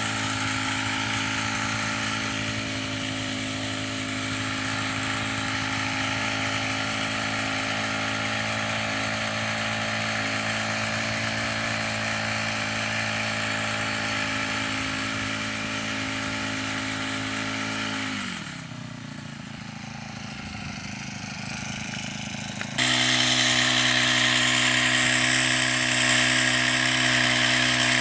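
Small engine running steadily. About eighteen seconds in its pitch glides down as it slows, and some five seconds later a louder, higher-pitched steady engine sound starts abruptly.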